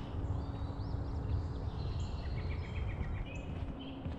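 Small songbirds chirping and whistling, with a quick run of about six notes a little after halfway, over a steady low outdoor rumble.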